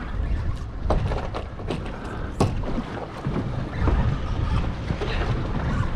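Wind buffeting the microphone on an offshore fishing boat, an uneven low rumble, with a few sharp knocks and clicks, the loudest about two and a half seconds in.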